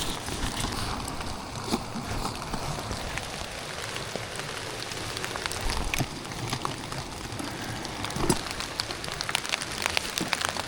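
Steady rain falling, with many close raindrops striking as sharp ticks, more frequent in the last couple of seconds.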